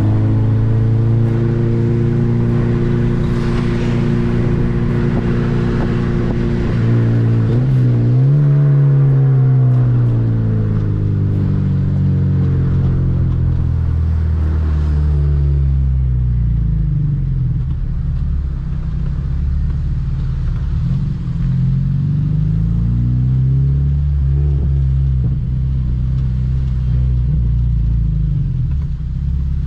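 2007 Honda Civic Si's 2.0-litre four-cylinder engine running under way. The note holds steady at first, drops sharply and climbs back about eight seconds in, like a gear change, then slowly falls and rises again several times as the speed changes.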